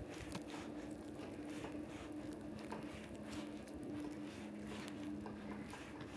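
Light rain pattering in many irregular small drops, with footsteps on wet ground, over a steady low hum in two pitches that fades in and out.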